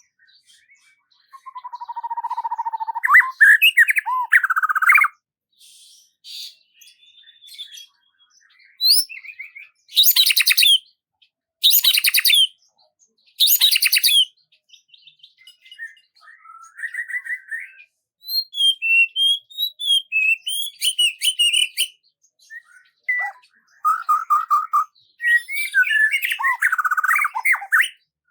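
Songbirds singing: a string of separate whistled and trilled song phrases and chirps, with short silences between them. Three loud, rapid phrases come in the middle, and the calling grows busier near the end.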